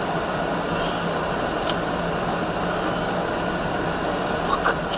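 Steady road and engine noise of a moving vehicle, heard from inside the cabin, with a constant low hum. Two short clicks come near the end.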